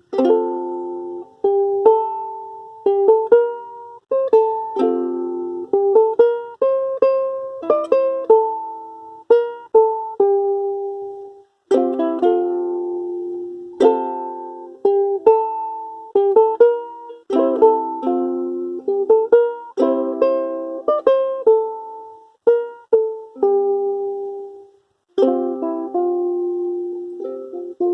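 Solo ukulele playing a tune in plucked notes and chords, each note dying away quickly, with brief pauses between phrases.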